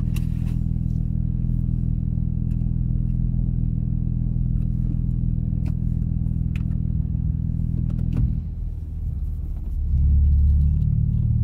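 Car engine running steadily, heard from inside the cabin, with a few faint clicks. About eight seconds in the hum drops, and about two seconds later the engine note comes back louder.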